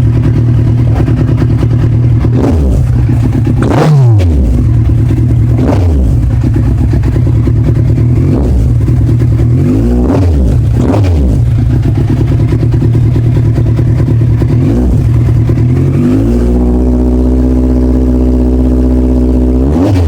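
Kawasaki Z1000 inline-four through a Two Brothers aftermarket exhaust, idling loudly with a series of quick throttle blips that rise and fall sharply. Near the end the engine is held steady at one speed for about four seconds, then blipped once more.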